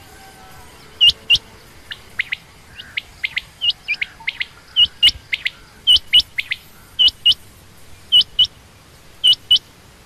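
Quail calling: short, sharp, high notes in pairs, the pairs repeating about once a second, with softer, quicker notes in between for a few seconds in the middle.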